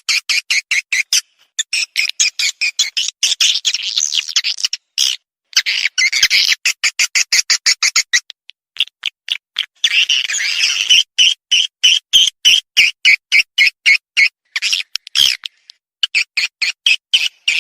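Swiftlet calls played as a lure recording: rapid, repeated high chirps at about five a second, with stretches of denser twittering and a few brief pauses.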